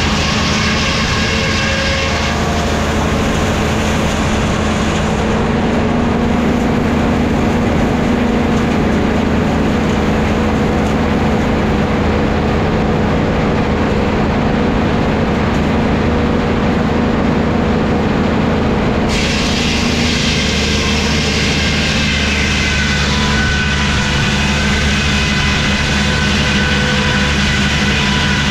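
Engine-driven sawmill machinery running steadily, with a continuous low engine tone underneath. The higher, hissing part of the sound drops away about four seconds in and comes back abruptly about nineteen seconds in.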